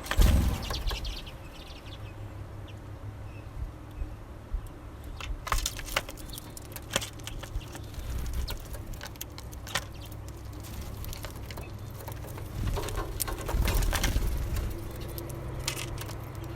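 Small songbirds at a seed feeder: irregular sharp clicks and taps of beaks pecking and husking seeds, with bursts of wing flutter, over a steady low rumble.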